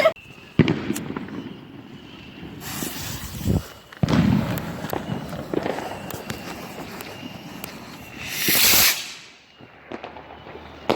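Garden fireworks going off: sharp bangs near the start and about four seconds in, with crackling between and a loud hissing whoosh about eight seconds in.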